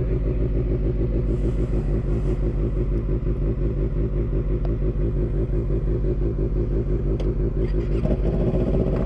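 Motorcycle engine running steadily under way, with a fast, even pulsing in its note. The engine note changes about eight seconds in.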